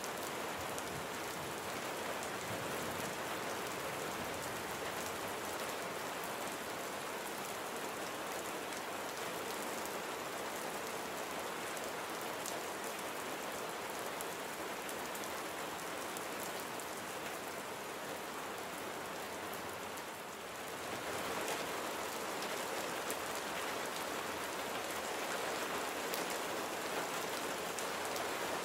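Steady rain falling, with individual drops heard as small scattered ticks. It eases briefly about three quarters of the way through, then comes back a little louder.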